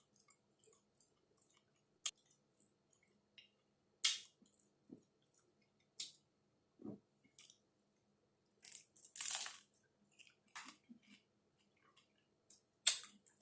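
A person chewing mouthfuls of split-pea taco, with scattered short crunches and wet mouth clicks at irregular intervals and a longer crunchy burst about two-thirds of the way in.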